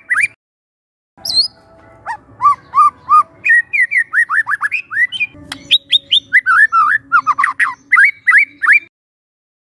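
Young wild white-rumped shama singing quick runs of short, sharply sweeping notes. The song drops out abruptly just after the start, resumes about a second in, and cuts off abruptly shortly before the end.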